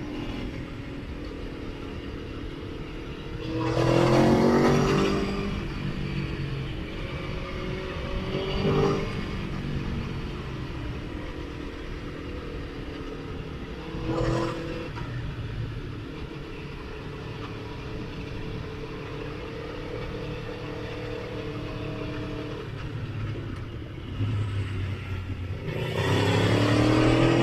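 Motorcycle engine running on the road, with four hard accelerations whose pitch rises through the gears: about four seconds in, near nine, near fourteen, and the loudest near the end.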